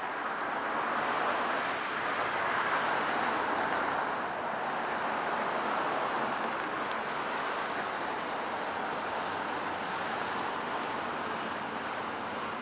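Steady rushing noise of road traffic, a little louder for a few seconds about one second in as vehicles pass, then settling.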